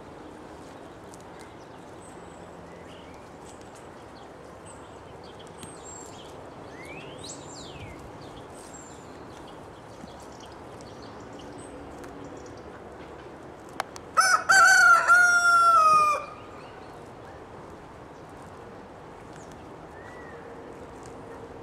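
A rooster crows once, a single loud call of about two seconds, about two-thirds of the way through. Under it run a steady outdoor hiss and scattered small bird chirps.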